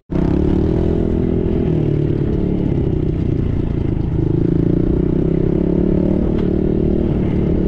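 Small dirt bike engine running close by, its pitch rising and falling with the throttle.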